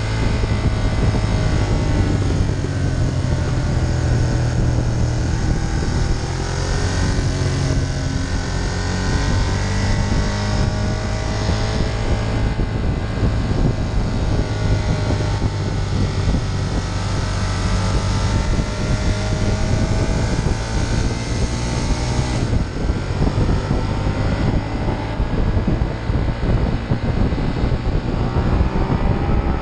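Ducati Monster 1200's L-twin engine running under riding load, its revs rising and falling repeatedly, with wind rushing over the microphone.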